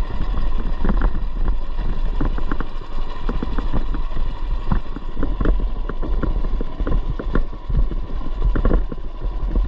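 Coleman BT200x mini bike with a 212cc single-cylinder four-stroke engine and header muffler, running under way over rough trail, with frequent short knocks and rattles over a heavy low rumble.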